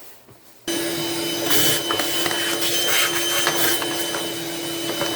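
A vacuum cleaner switches on about a second in and runs steadily with a constant motor whine, cleaning dust out of the car's air box.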